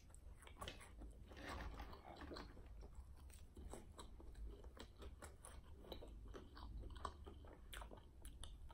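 Faint close-miked chewing of fried chicken: wet mouth smacking with many small irregular crunches and clicks.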